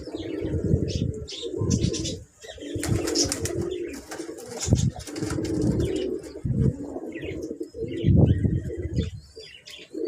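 Pigeons cooing in repeated low bouts, with short high chirps from other birds mixed in.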